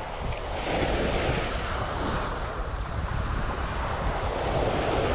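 Sea waves breaking and washing on a sandy beach, surging and easing. Wind buffets the microphone with a low rumble.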